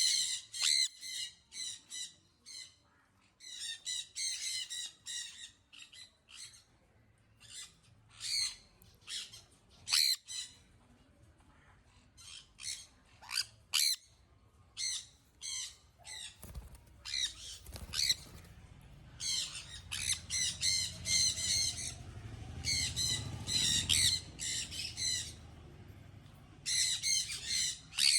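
Young sun conures screeching: harsh, shrill calls that come in clusters and quick runs of repeated squawks, with short pauses between.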